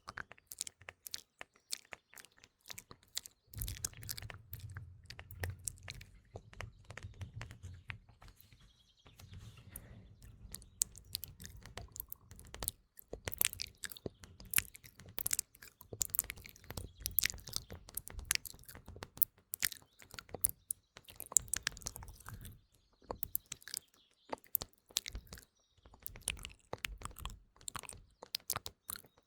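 Close-miked ASMR mouth sounds, rapid wet clicks and smacks, together with tapping on a phone, over faint morning birdsong.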